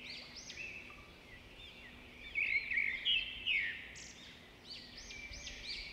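Small birds chirping in a rapid series of short, high, arching notes, loudest about two to four seconds in.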